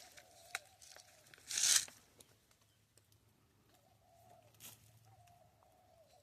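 A short, loud rustle about a second and a half in and a fainter one near five seconds, over faint, drawn-out bird calls.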